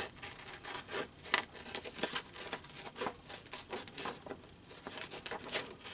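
Magazine paper being handled and shifted about: an irregular run of short rustles and crinkles with a few sharper ticks.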